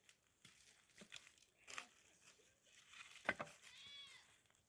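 Mostly quiet, with a few faint clicks and rustles, then one short, faint, high-pitched animal cry about three and a half seconds in that rises and falls in pitch.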